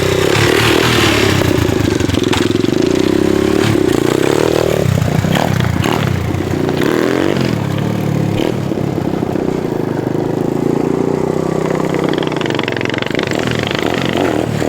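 Dirt bike engine running and being revved: the pitch climbs to a peak about five seconds in, drops away, then holds steadier.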